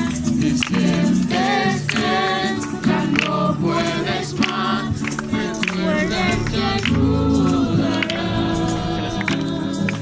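A group of voices singing a Christian song, with music underneath.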